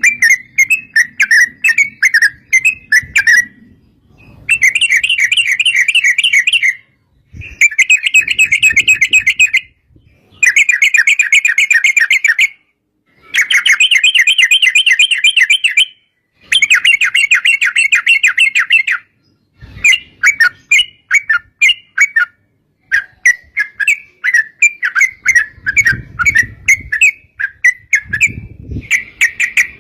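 Yellow-vented bulbuls (trucukan) calling in long, rapid rattling chatters, each burst lasting two to three seconds with short pauses between. Looser runs of separate notes come at the start and again from about two-thirds through. Low thumps come in twice near the end.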